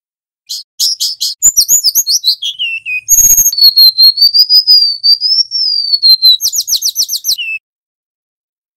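Golden-bellied gerygone (remetuk laut) singing. It gives a quick run of high chirps and a phrase falling in pitch, then a short crackle about three seconds in. A long wavering high whistle follows, then a fast trill and a lower closing note.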